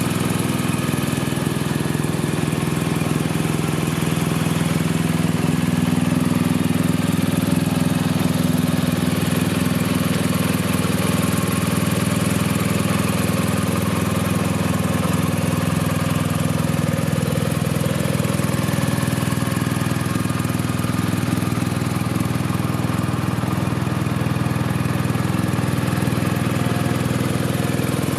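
BMW R1250 RT's boxer twin engine idling steadily.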